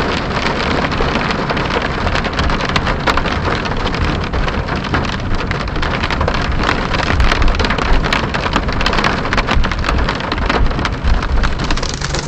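Hailstones falling and striking the ground, a dense clatter of many sharp ticks over a steady rushing hiss.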